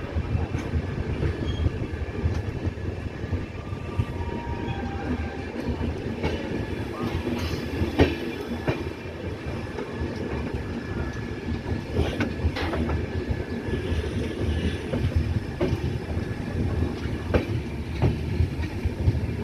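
Coaches of the 12817 Jharkhand Swarna Jayanti Express rolling out of the station, a steady rumble with the wheels clacking now and then over rail joints.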